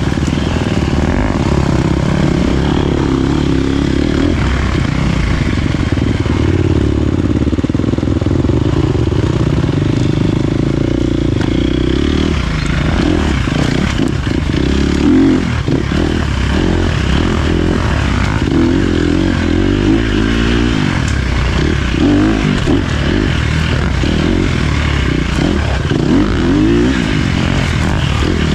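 Dirt bike engine running while being ridden, with the pitch wavering up and down with the throttle through the second half.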